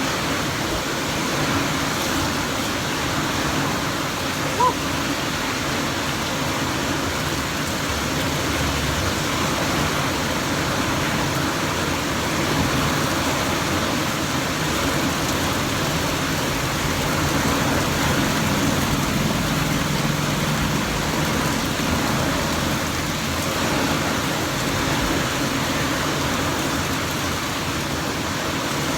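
Heavy rain falling steadily, a constant downpour hiss.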